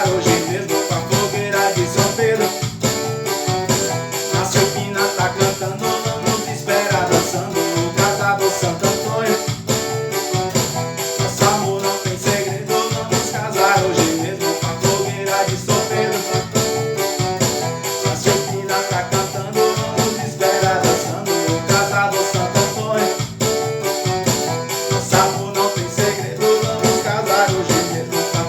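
Instrumental forró played on a Casio MZ-X500 arranger keyboard: a keyboard melody over the keyboard's rhythm accompaniment, with a steady, quick shaker-like percussion beat.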